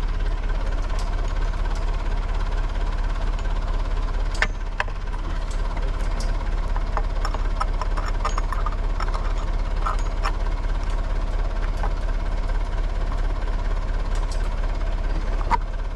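Backhoe's diesel engine idling steadily, with a few sharp metal clinks and knocks from work on the deer stand's frame.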